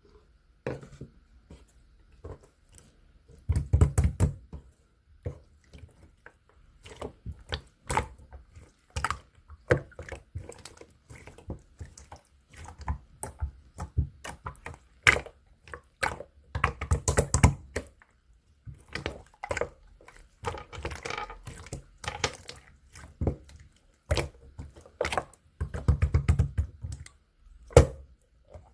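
Pearl slime being squished, pressed and stretched by hand, giving many small sticky pops and clicks at an uneven pace, with denser, louder runs of popping about 4 seconds in, around 17 seconds and near 26 seconds.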